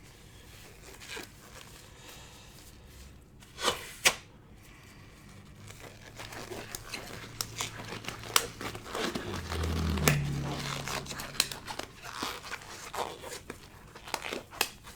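Foil trading-card pack wrappers crinkling and tearing as they are handled, with two louder sharp crackles about four seconds in and busier crackling later on.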